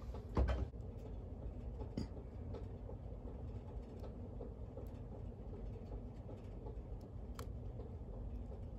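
Low steady room hum with a few faint clicks and knocks of small plastic parts being handled, one thump just after the start and sharp clicks about two seconds and seven seconds in.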